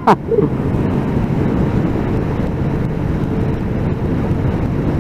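Steady wind noise and motorcycle engine running while riding, heard from a mic inside a crash helmet, so the sound is muffled and dominated by wind rush.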